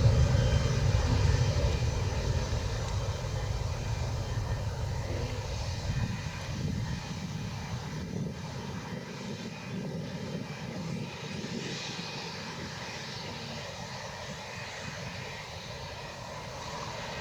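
Boeing 737 MAX 8 jet airliner's CFM LEAP-1B engines running at takeoff power, a deep rumble that fades steadily as the aircraft moves away.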